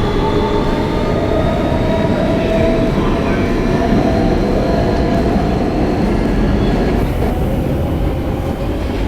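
R160B subway car running, heard from inside: a steady rumble of wheels on rail with the whine of the Siemens AC propulsion. The whine is a cluster of tones that fades out about seven seconds in, while the rumble carries on.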